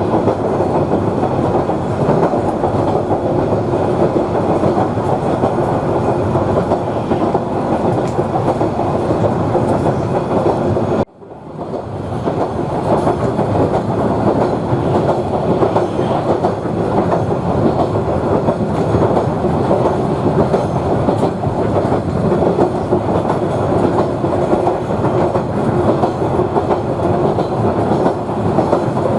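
A Queensland Rail 2000 class rail motor running along the track, a steady rolling noise of wheels on rail. The sound cuts out for a moment about eleven seconds in and comes back within a second.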